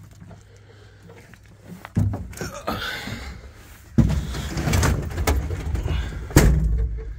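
Thumps and rattling in an old truck's cab, with door-like slams and knocks about two, four and six and a half seconds in and rough rumbling noise between them. No engine is running.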